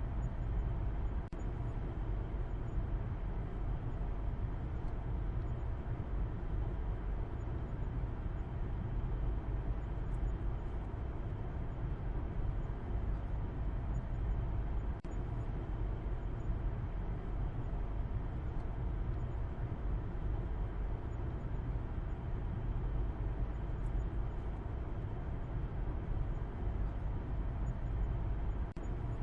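A car driving, heard as a steady, even low rumble of road and engine noise with no change in speed.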